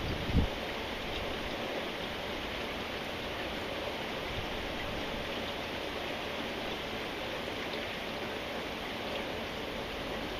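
Steady rain falling with an even hiss, and a single short low thump about half a second in.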